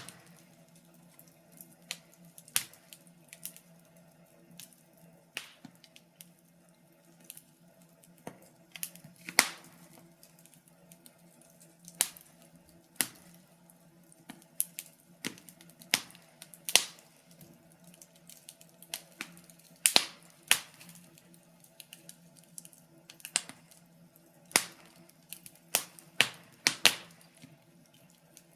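Wood fire crackling in a fireplace: irregular sharp pops and snaps, a few each second, some much louder than others, over a faint steady low hum.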